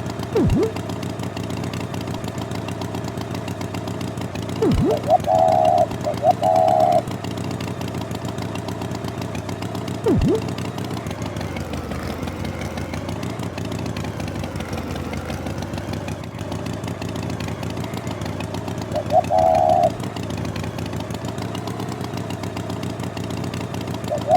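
Tractor engine sound effect running steadily, with a few short high beeps and three quick sounds that drop sharply in pitch.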